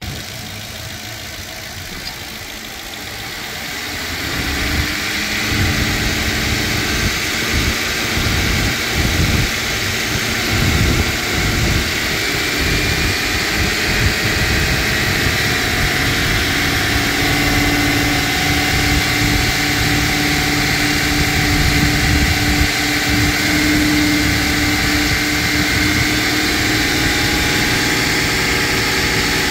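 Car engine idling under an open hood, heard from just above the engine bay; it gets louder about four seconds in, then runs steadily.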